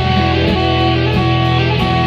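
Live rock band playing an instrumental passage: electric guitar over bass and drums with a steady beat.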